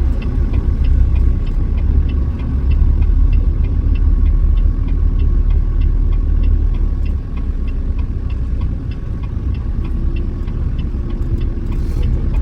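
Truck engine running with a steady low rumble heard from inside the cab, a fast regular ticking over it, about three ticks a second.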